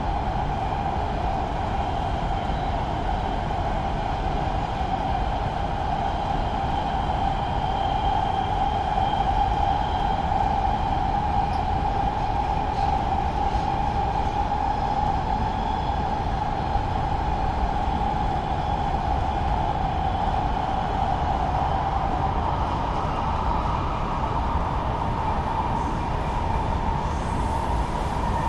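Los Angeles Metro Rail train running on the track: a steady rumble with a constant whine that shifts a little higher about three-quarters of the way through.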